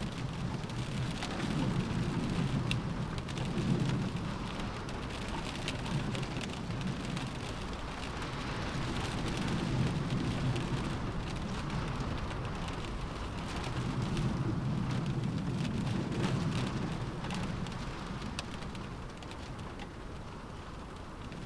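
Rain beating on a window in a windstorm: a steady hiss with many small drop ticks over a low rumble that swells and fades every few seconds.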